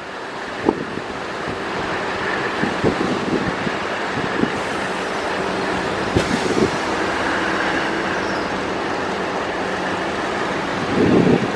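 DEMU diesel multiple-unit train rolling slowly into a station, heard from on board: a steady running rumble and hiss, with occasional sharp clanks as the wheels cross rail joints.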